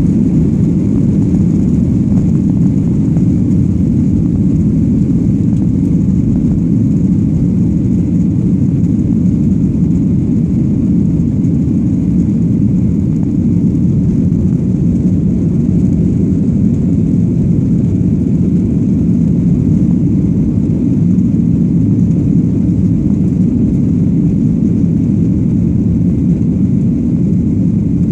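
Airplane engines running steadily during takeoff: a loud, even, low-pitched noise that does not change in pitch or level.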